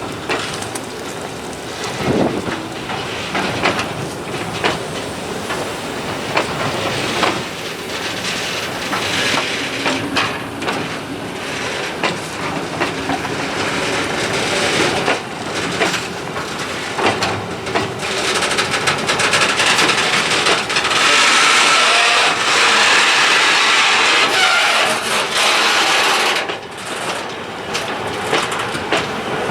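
Freight train on an industrial railway rolling past, wheels clicking over rail joints. It grows louder, with a brighter hissing, grinding stretch from about twenty seconds in.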